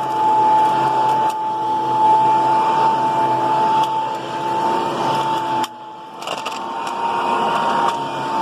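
Hoover PowerMax II upright vacuum cleaner running at full suction as it picks up a spread-out mess, its motor giving a steady high whine over a rushing hum. Scattered sharp clicks come from debris being sucked up. The sound dips briefly about five and a half seconds in.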